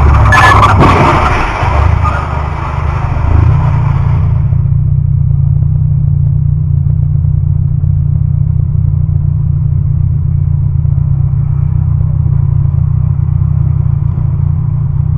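Steady low rumble of a car driving. In the first few seconds there is a louder burst of clattering and scraping noise with a few sharp clicks, which dies away about four seconds in.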